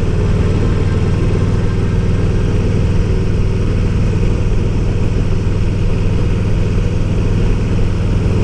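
Harley-Davidson Fat Boy's V-twin engine running at a steady pace while riding, with the note holding even throughout.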